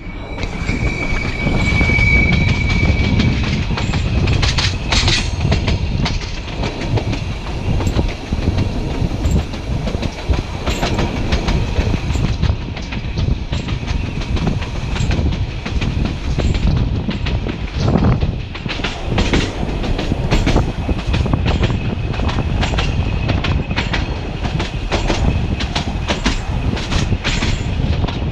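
Narrow-gauge passenger train running on the 760 mm Rhodope line, climbing: a steady rumble of the carriages with a stream of clicks from wheels over the rail joints, and a thin high tone for the first few seconds.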